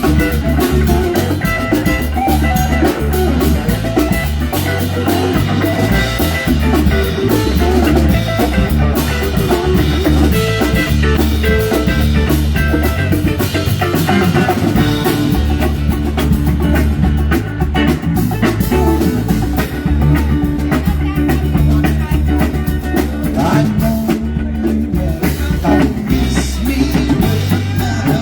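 Live band playing an instrumental passage on electric guitar, bass and drum kit, with a steady beat.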